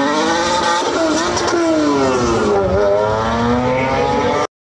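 Toyota MR2's swapped 2GR-FE 3.5-litre V6 launching and accelerating hard down a drag strip alongside a second car. The engine pitch climbs, falls, then climbs again, and the sound cuts off suddenly near the end.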